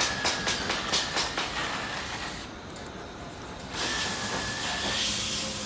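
Rapid strikes on steel, about five a second, as rusted bolts on a truck's side gate are worked loose; they stop after about a second and a half. About four seconds in, a steady hiss starts.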